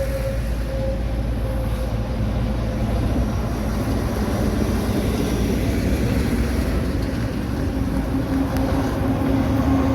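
Heavy truck engines and road noise, a steady low rumble. One engine's pitched note fades away in the first second or two, and another comes in about eight seconds in.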